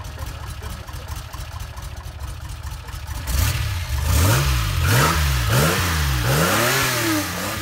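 Renault Alpine A310's V6 engine idling with a low rumble, then revved by hand at the throttle linkage from about three seconds in: four or five quick blips, its pitch rising and falling with each.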